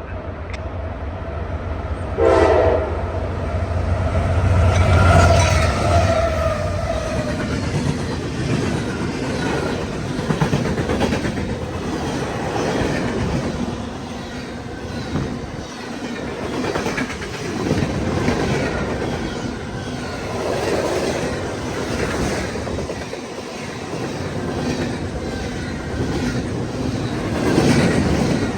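CSX diesel-hauled freight train passing close by. A short horn blast comes about two seconds in, then the locomotives' engines rumble past for a few seconds. After that the freight cars' wheels clatter rhythmically over rail joints.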